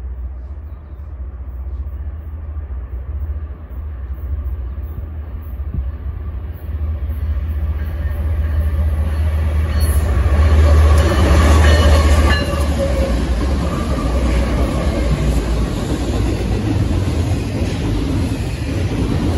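A train approaching and passing, its noise building to its loudest about ten to twelve seconds in and staying loud as it goes by, over a steady deep rumble, with wheels clicking on the rail joints.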